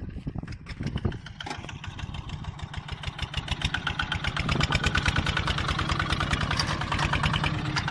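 Homemade tractor's engine running steadily while plowing, with rapid even firing pulses that grow louder from about three seconds in.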